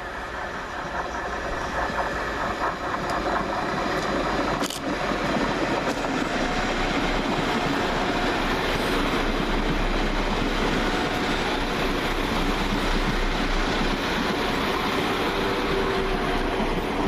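West Midlands Railway Class 172 Turbostar diesel multiple unit arriving, its underfloor diesel engines and wheels running. The sound builds over the first few seconds, then holds steady, with one sharp click about five seconds in.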